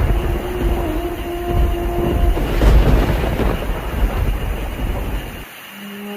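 Long rolling thunder rumble over rain, with a held musical note under it for the first couple of seconds. The rumble cuts off suddenly about five and a half seconds in, leaving soft music.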